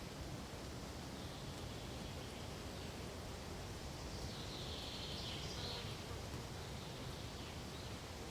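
Pine forest ambience: a steady soft rustle of wind through pine needles, with a brief high-pitched chirring call about halfway through.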